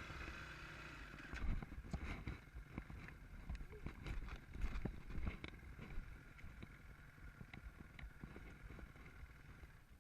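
Off-road motorcycle engine running at low revs under a steady rumble, with irregular knocks and rattles throughout. A higher whine fades out in the first second or so.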